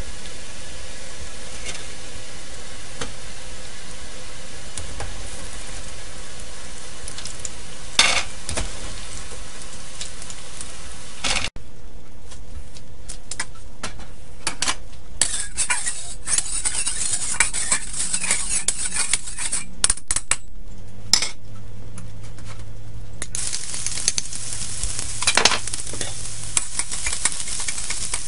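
Battered chicken pieces deep-frying in a pot of hot oil, a steady bubbling sizzle. After a cut about eleven seconds in, oil and a chopped ingredient sizzle in a wok, in hissing spells, while a spatula scrapes and clicks against the wok as it is stirred.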